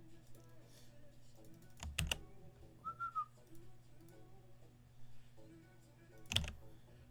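Faint background music over a steady low hum, with two sharp knocks, one about two seconds in and one near the end, and a brief whistled note about three seconds in.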